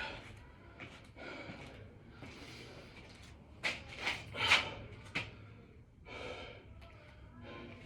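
Heavy, hard breathing of a man exerting himself through burpees, a string of short gasping breaths with a few sharper, louder ones about four to five seconds in.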